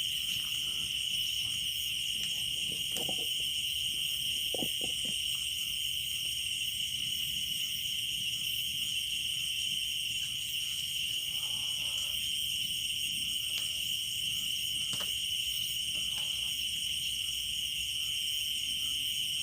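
Steady chorus of night insects in a rice paddy: a continuous high-pitched chirring drone with even level throughout, with a few faint short knocks and clicks underneath.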